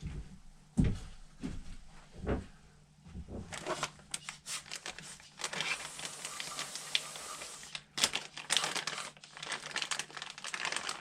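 Aerosol carburetor cleaner hissing as it is sprayed onto motorcycle carburetor parts, starting about three and a half seconds in and running steadiest for a couple of seconds before stopping, with knocks and rustling from handling the parts before and after.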